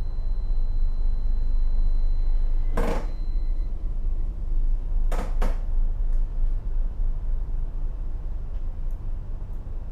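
Steady low rumble of a tugboat's diesel engine, heard on board. There is one knock about three seconds in and two quick knocks just past five seconds.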